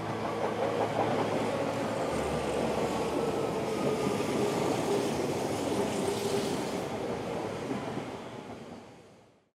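Sendai Subway Namboku Line electric train passing on an open-air stretch of track: a steady rush of wheels on rail that fades out near the end.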